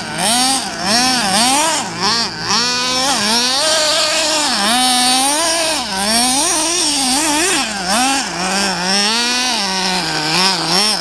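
RC buggy's motor revving up and down over and over as it is driven through drifts, its pitch rising and falling about once or twice a second.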